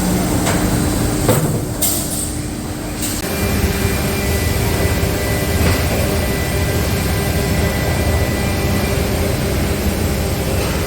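Plastic injection moulding machines running on a washing-machine tub production line: a steady low factory rumble. It thins briefly with a couple of clicks about a second and a half in, then returns about three seconds in with a steady mid-pitched hum and a faint high whine.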